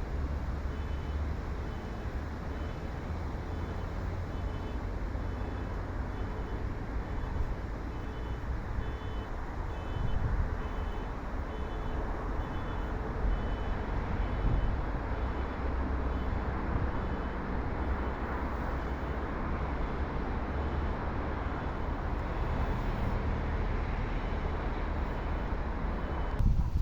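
Steady low rumble with a short, high electronic beep repeating at an even pace, about once a second.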